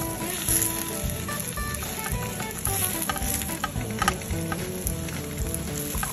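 Pak choi sizzling in a frying pan in a little water, with a few sharp clicks of tongs turning it about halfway through. Light background music with short notes plays under it.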